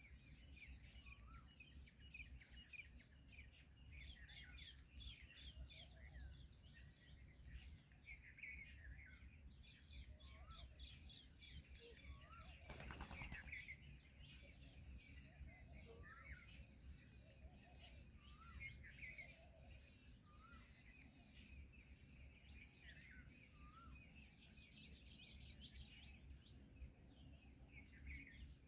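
Many small birds chirping continuously and faintly, dense quick twitters over a low steady rumble, with one short louder burst of noise about thirteen seconds in.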